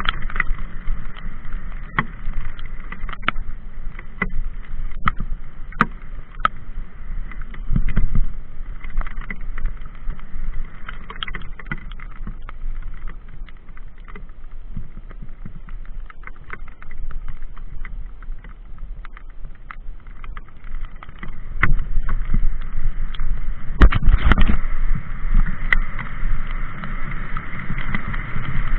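Mountain bike clattering and rattling over a rough trail, with many sharp knocks from the frame and components, under a steady low rumble of wind on the microphone. It gets louder about eight seconds in, and again for a few seconds near the end.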